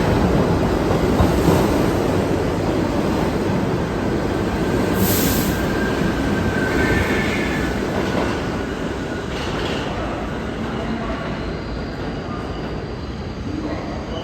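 New York City subway train moving along the platform on the IRT line, a steady rumble of wheels on rail with brief wheel squeals partway through; the noise eases slowly toward the end.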